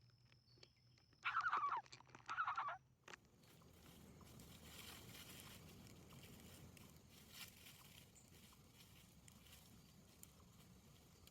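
Two short, harsh bird calls a little under a second apart, followed by faint rustling and small clicks.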